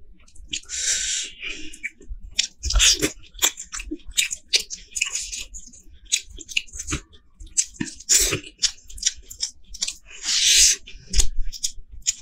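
Close-miked chewing and wet mouth sounds of a person eating curried meat and rice by hand, with many short irregular smacks and clicks.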